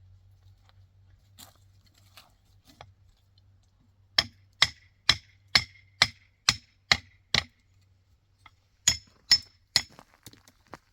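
A hand tool striking hard in a steady rhythm: eight sharp blows about two a second, a short pause, then three more.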